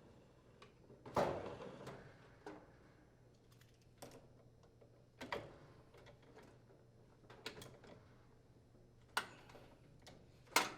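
Scattered light clicks and knocks, about six in all, as a Whirlpool dryer blower wheel is threaded onto the motor shaft and tightened with a wrench and socket.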